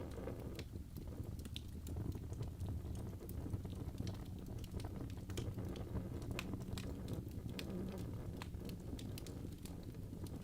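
Wood fire in a fireplace, logs burning with frequent irregular crackles and pops over a low steady rumble of flame.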